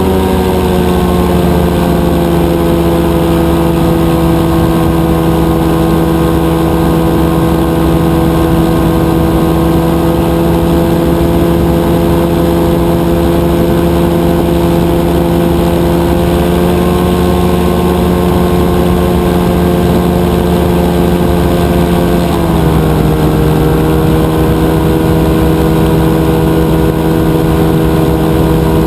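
Rotax 582 two-stroke twin engine of a powered parachute running steadily under power, its pitch easing down a little about a second in and again about three quarters of the way through as the throttle is eased back.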